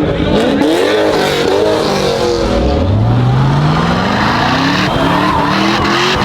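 Car engine revving hard through a burnout, with tyres squealing and skidding on pavement; the engine's pitch climbs steadily from about two and a half seconds in.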